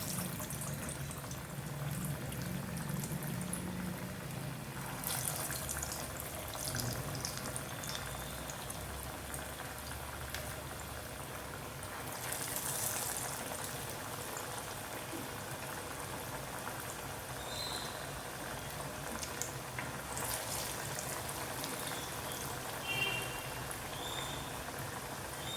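Tur dal vadas deep-frying in hot oil: a steady sizzle that swells briefly three times.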